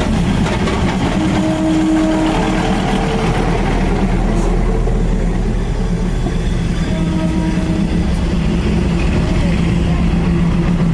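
A train's engine running steadily at close range as the train moves through the market along the track, with a constant low drone.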